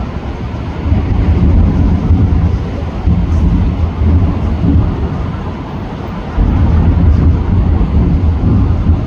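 Fireworks display going off in a continuous barrage of deep, rumbling booms. It swells about a second in and again a little past the middle.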